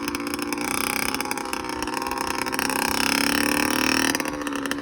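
1997 Kawasaki KX60's small two-stroke single-cylinder engine running with a buzzy tone. Its pitch rises about halfway through, holds, then eases off near the end.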